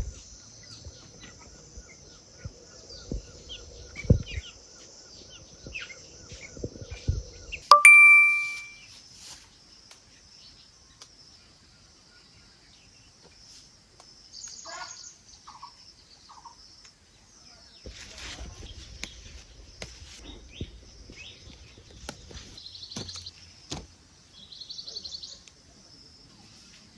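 Outdoor ambience with a steady high insect drone, scattered knocks and handling thumps, and one loud bright ding about eight seconds in that rings and fades over a second. Short bird-like chirps come near the end.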